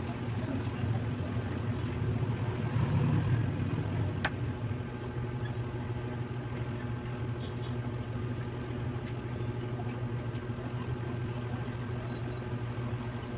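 A steady low mechanical hum, like a motor running, with one sharp click about four seconds in.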